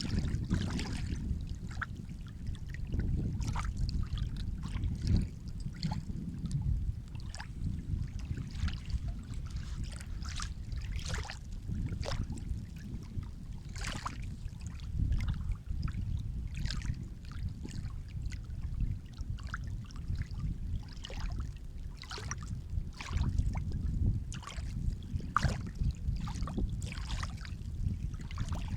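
Seawater lapping and splashing at the shore: a steady low rumble of surf with many small, irregular splashes over it.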